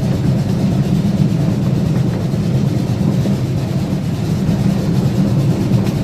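Live-steam riding train rolling along the track, a steady low rolling noise of wheels on rails with no distinct beats.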